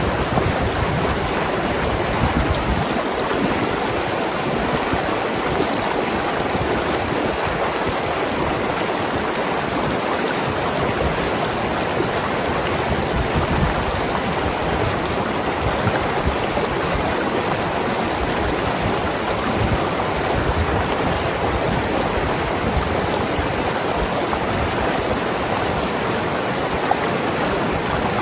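Mountain river rushing and gurgling over rocks in a steady wash of water noise, with an uneven low rumble underneath.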